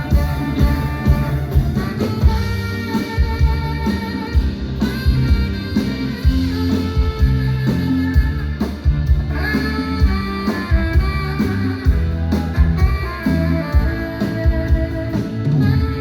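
Live band music, an instrumental passage with guitar over bass and drums.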